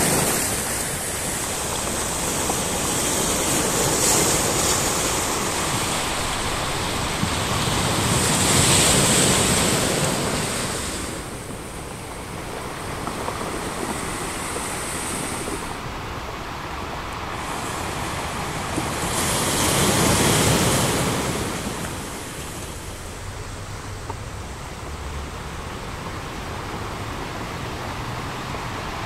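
Sea surf: waves breaking and washing up the shore in slow surges, the loudest about nine and twenty seconds in.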